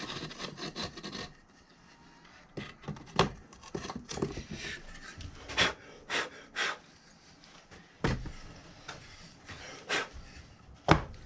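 Scraping, then a series of separate knocks and clicks as the parts of a sand-casting mold setup (flask and pattern plates) are handled and fitted together.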